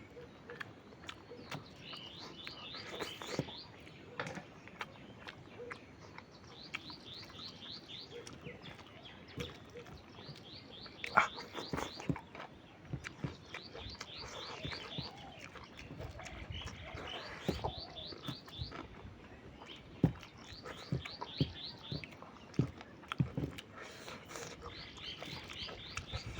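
A small bird singing a quick run of short, high, repeated notes about a second long, again and again every few seconds. Underneath are close eating sounds: sharp clicks, smacks and taps, the loudest about eleven and twenty seconds in.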